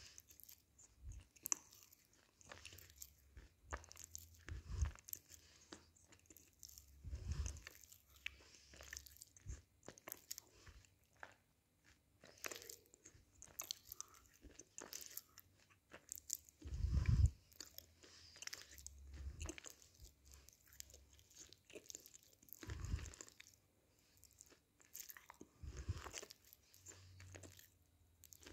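Close-up chewing of crunchy roasted grey clay: gritty crackling crunches between the teeth throughout, with a few heavier low thuds, the loudest about two-thirds of the way through.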